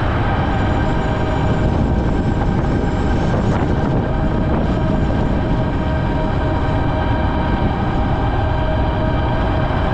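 Ariel Rider Grizzly e-bike under way: a steady whine with several fixed tones over a loud, even low rumble, unbroken throughout.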